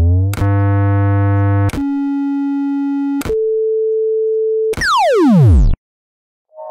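Synthesized electronic tones in sequence: a rising glide, then steady held tones that change in steps with a click at each change, then a fast falling sweep that cuts off abruptly about six seconds in, followed by a brief silence.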